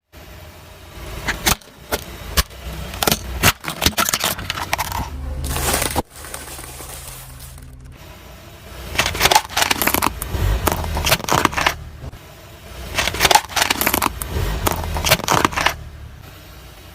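Car tyre rolling over and crushing crunchy objects: bursts of sharp cracking, snapping and crunching over a low rumble.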